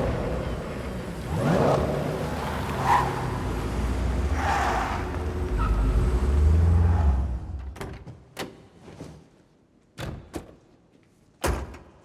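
Car engines running hard and revving as the cars race past, with rising whooshes, until the rumble fades about seven and a half seconds in. Then come several sharp knocks, car doors being shut.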